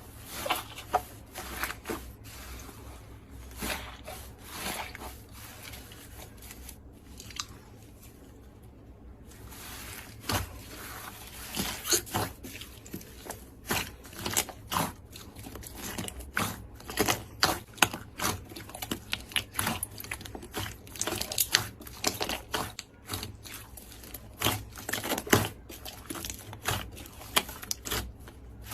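Slime being squeezed and pressed by hand: a dense run of sticky crackles and small pops, thinning out for a few seconds about a third of the way in.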